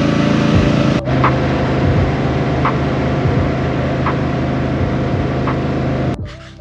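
Boat motor running steadily, with a faint tick about every second and a half; it cuts off abruptly near the end.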